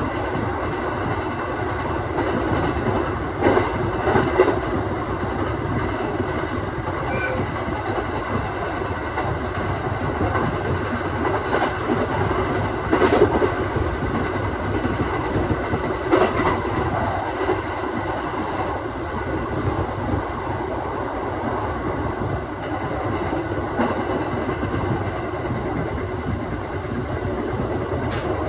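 Aoimori Railway 701-series electric train running along the line, heard from inside the car: a steady rolling rumble of wheels on rail, with a few louder clacks over rail joints.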